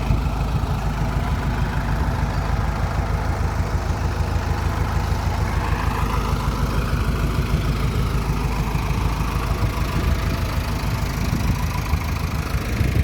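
Heavy-machine diesel engine running steadily with a rapid low pulsing, with a faint whine that rises and falls about halfway through.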